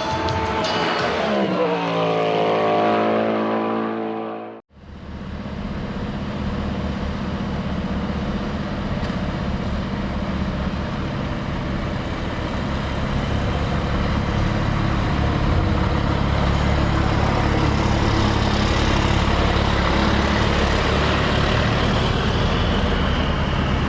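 Race truck diesel engines running on track. Heavy low engine rumble after a sudden cut about four and a half seconds in, slowly growing louder; before the cut a pitched engine note glides down and holds.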